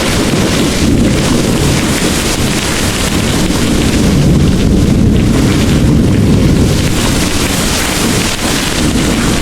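Heavy rain pouring in a steady hiss under a deep, continuous rumble of rolling thunder.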